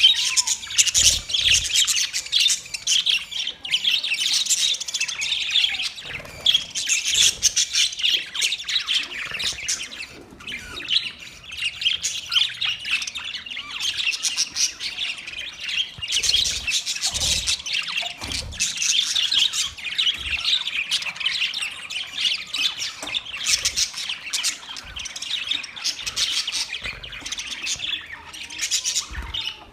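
Budgerigars chattering: a dense, continuous warble of quick high chirps and squawks, with a few low thumps mixed in.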